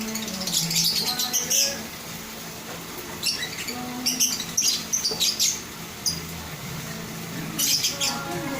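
Lovebirds chirping: shrill, rapid chatter in three bouts, about a second in, in the middle, and near the end.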